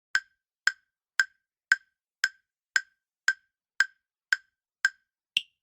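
Quiz countdown-timer sound effect: a wood-block-like tick about twice a second, eleven ticks in all, with the last one higher in pitch, marking time up.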